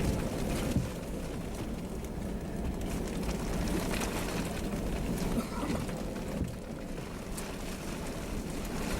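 Steady rumble of storm wind and rain noise, with a brief knock a little under a second in.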